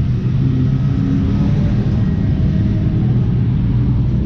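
Car engine running steadily under load on track, heard from inside the car.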